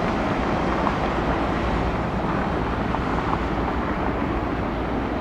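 Steady roar of jet airliner engines, mixed with wind rumbling on the microphone.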